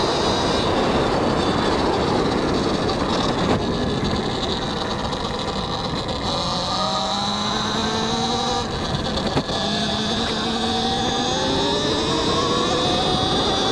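Talaria X3 electric dirt bike being ridden, with heavy wind and tyre noise on a helmet mic. From about halfway through, the motor's whine rises and falls in pitch as the speed changes.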